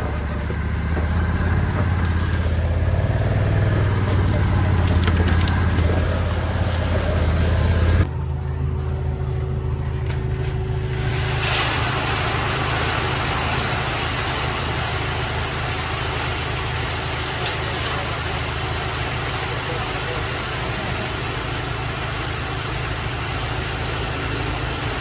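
A vehicle engine running steadily at low revs. Its sound shifts abruptly about eight seconds in, then runs on evenly with a steady hiss added.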